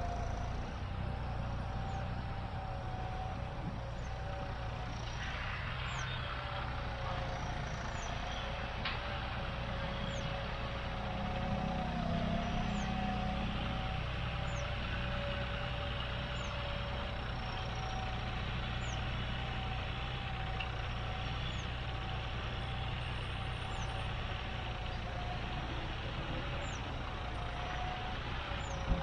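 John Deere 5310 tractor's turbocharged diesel engine running steadily, with a constant high turbo whistle over the engine note.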